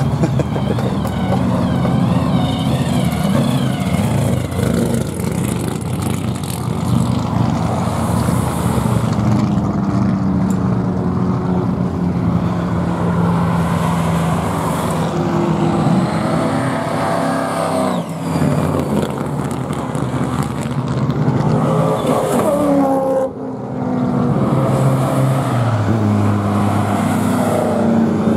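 Several cars accelerating hard past on a racetrack straight, their engines running loud. The engine notes climb as they rev and drop back at gear changes.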